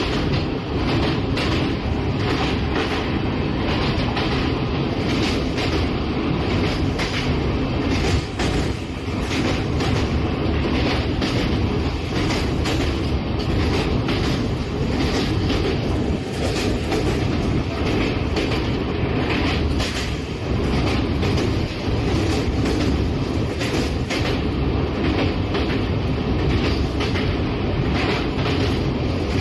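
Moving passenger train with LHB coaches: a steady rumble of wheels on rails, with frequent irregular clicks and knocks.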